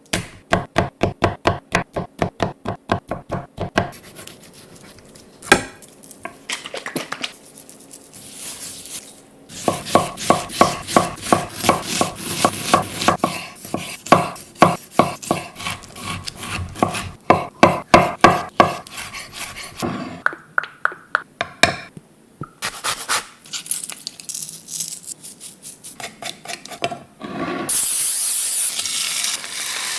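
Kitchen knife chopping quickly on a cutting board in rapid runs of strokes, about six or seven a second, with softer rubbing and handling sounds between the runs. Near the end a steady hiss begins.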